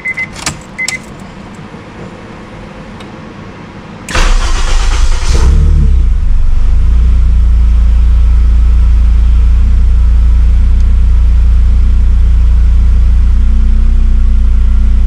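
A K-series swapped Honda S2000's four-cylinder engine is cranked from stone cold. About four seconds in it catches with a brief burst, then settles into a loud, steady cold idle of about 800–900 RPM. Just before this there are a couple of short electronic beeps and clicks.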